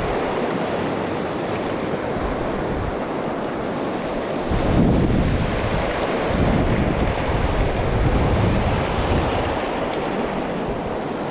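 Mountain stream rushing steadily, with gusts of wind buffeting the microphone as low rumbles.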